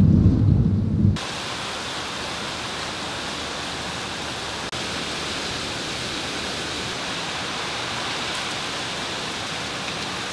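A low rumble of thunder that cuts off about a second in, followed by a steady, even hiss of falling rain.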